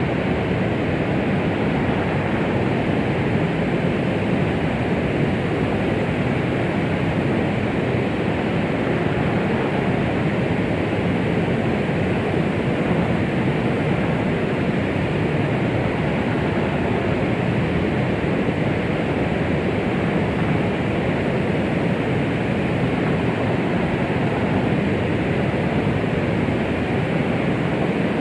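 White-noise track of the kind played to soothe babies as an imitation of the sound of the womb: a steady, even rushing noise, fuller in the lows and mids with little treble, and no change or pulse.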